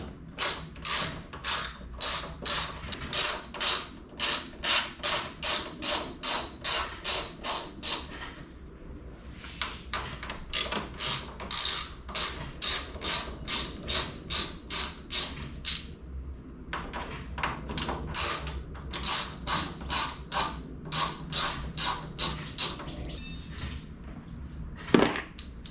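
Hand ratchet wrench clicking in even strokes, about three clicks a second, while bolts are backed out, in three long spells with short pauses between. A single sharp knock near the end.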